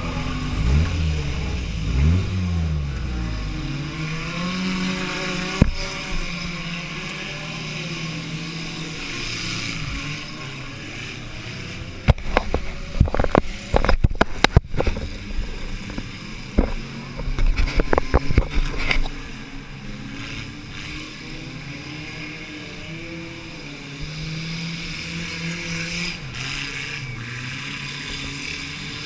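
Small car engine revving and running hard in a mini-car demolition derby, heard from inside the car, its pitch rising and falling in the first few seconds. About twelve seconds in comes a run of sharp bangs and clatter lasting several seconds, after which the engine settles into a steadier drone.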